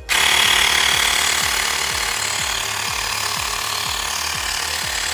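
Xiaomi portable electric air compressor switching on just after the start and running steadily, slightly louder for the first second, as it pumps air into a car tyre at about 30 PSI with its cut-off set to 35 PSI.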